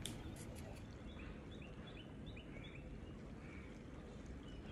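Faint small-bird chirps: a quick run of short, high, slightly falling notes starting about a second in, over a low steady background hum. A few light clicks come at the start.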